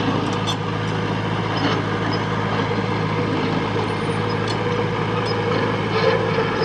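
Diesel engine of a heavy machine running steadily at an even pitch, with a few faint metallic clicks.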